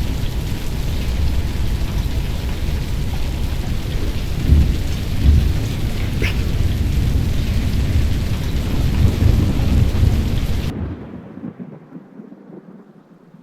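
Thunderstorm: steady heavy rain with deep rumbling underneath, which drops away sharply about eleven seconds in.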